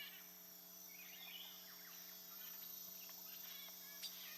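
Faint nature ambience with scattered short bird chirps over a steady, faint low hum.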